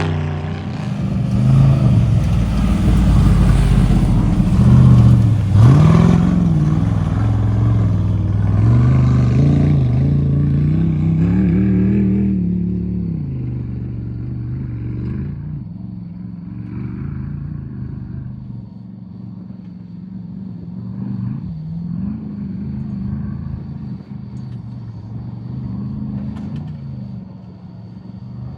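Off-road race vehicle's engine revving hard, its pitch rising and falling with throttle and gear changes, loud at first and then fading to a more distant running note after about twelve seconds.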